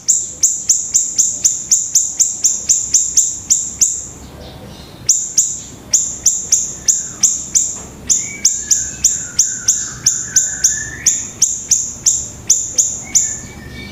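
Pleret bird singing vigorously: a fast, even run of sharp high-pitched notes, about three to four a second, broken by a pause about four seconds in. A lower, wavering whistle runs beneath the notes for a few seconds past the middle.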